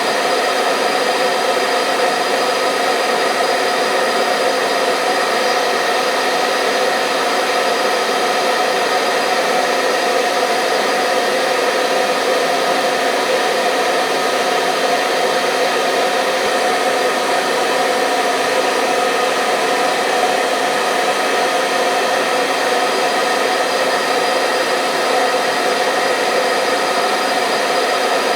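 Hair dryer running steadily: a constant rush of blown air with a steady motor whine and no change in speed.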